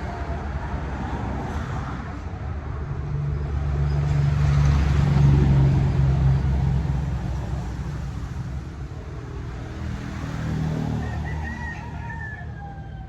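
A motor vehicle's engine rumble that swells to its loudest about five seconds in and then fades, with a rooster crowing.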